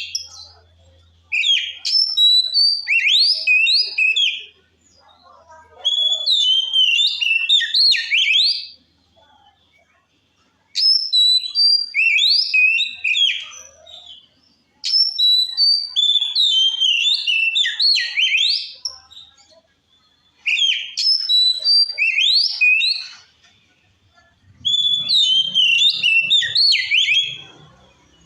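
Oriental magpie-robin (kacer) singing loud, full song: six bouts of quick, varied whistled phrases, each about three seconds long, with short pauses between them.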